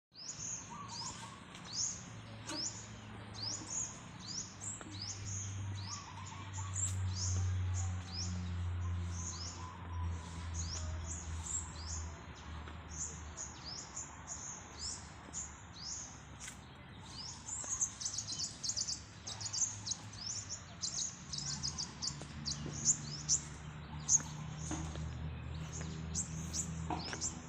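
A small bird chirping over and over, short high falling notes about two or three a second, growing denser in the second half, over a low steady hum.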